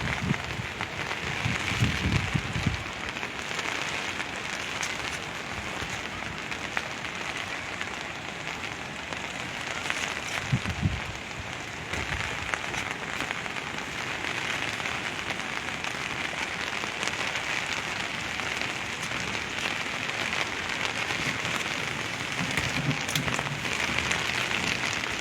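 Heavy monsoon rain falling steadily as an even hiss, with many small drop hits on the umbrella held over the camera.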